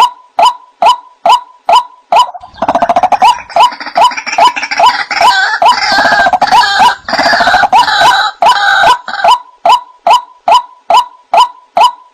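White-breasted waterhen calling: a steady run of short 'wak' notes, about two and a half a second. From about two seconds in to about nine seconds in, a dense chattering chorus of calls rises over the notes, then the lone repeated notes carry on.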